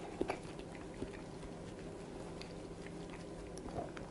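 A person chewing a mouthful of baked pork-and-bell-pepper meat roll, faint, with a few small clicks.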